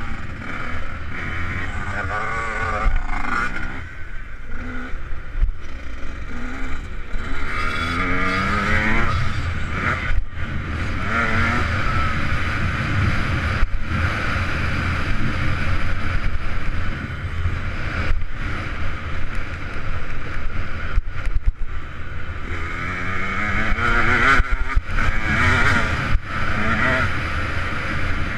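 2008 KTM 125 SX two-stroke motocross bike being ridden hard, its engine revving up and falling back over and over as the rider works the throttle and gears.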